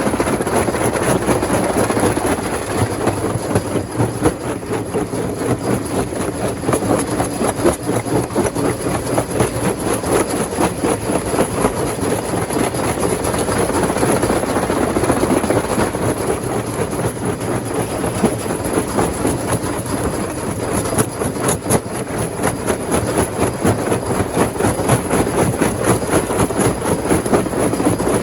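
Rock crusher machine running under load: a steady heavy machine noise with a dense, continuous rattle of knocks from stone being broken.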